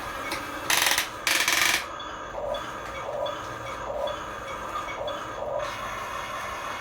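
Small electric motors and gearboxes of RC toy construction vehicles running, with two short, loud scraping rushes about a second in, then a soft pulse repeating about one and a half times a second.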